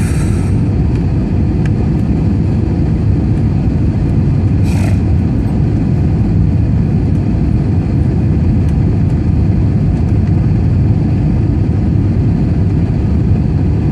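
Steady, loud engine and airflow rumble inside an airliner cabin, with two short hissing bursts, one at the start and one about five seconds in.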